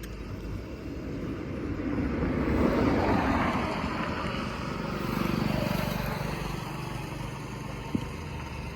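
Road traffic: two vehicles pass in turn, each swelling and fading away, with a single sharp click near the end.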